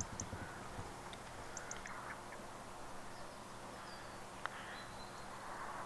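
Faint outdoor ambience with birds chirping and calling now and then, and a single soft click about four and a half seconds in.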